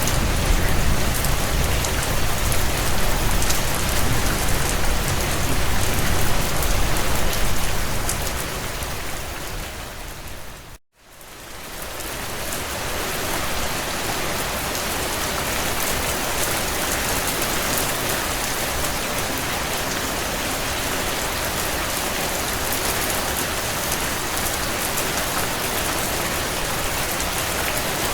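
Steady heavy rain hitting window panes, a dense even hiss with a low rumble under it for the first eight seconds or so. The sound fades down and cuts to a moment of silence about eleven seconds in, then fades back up and holds steady.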